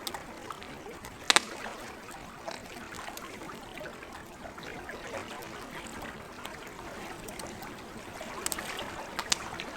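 Lake water lapping steadily while a campfire crackles, with one sharp pop about a second in and a cluster of pops near the end.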